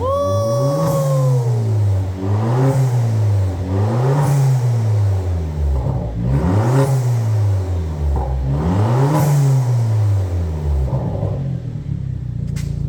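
Corsa VXR's 1.6-litre turbocharged four-cylinder engine, breathing through an aftermarket cat-back exhaust, revved up and let fall about five times, roughly every two seconds, before settling back toward idle near the end. A brief falling whistle sounds at the very start.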